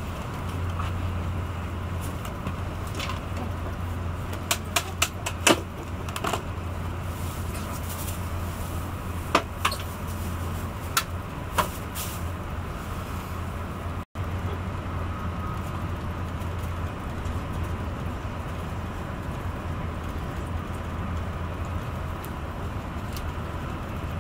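Inside a Renfe AVE S-102 (Talgo 350) high-speed train on the move: a steady low running rumble, with a scattering of sharp clicks and knocks in the first half. The sound cuts out for an instant about midway.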